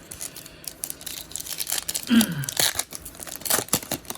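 A trading-card pack wrapper being torn open and crinkled: a run of crackling rustles. There is a short low voice sound, falling in pitch, about two seconds in.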